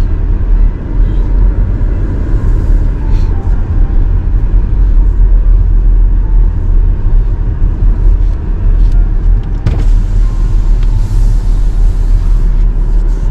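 A car heard from inside the cabin: a steady, heavy low rumble of engine and road noise, with a single sharp click about ten seconds in.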